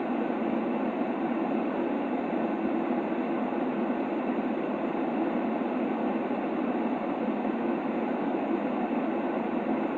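Steady white-noise sleep sound with its weight in the low middle and little top or bottom, giving an even, dull hiss that never changes.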